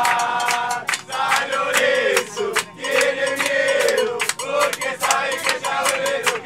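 A group of men singing a football chant together over a fast, steady percussive beat, about three strikes a second.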